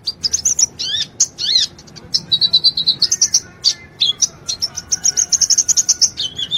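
A sunbird singing a fast, high-pitched song of rapid chirps and trills, with a few quick sweeping notes about a second in.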